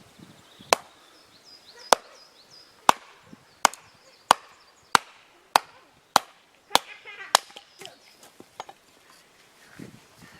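Firewood being chopped: about ten sharp wooden strikes, slow at first, then settling into a steady stroke a little under twice a second. Faint bird chirps sound early on.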